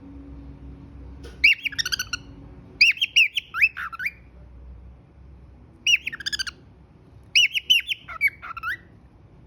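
Cockatiel whistling and chirping in four short bursts of quick rising and falling notes, with pauses between them.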